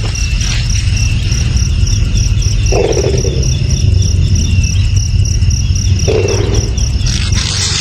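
Steady, evenly pulsed high-pitched insect trilling, like a cricket, over a constant low rumble. A short lower sound repeats about every three seconds, and a hiss comes in near the end.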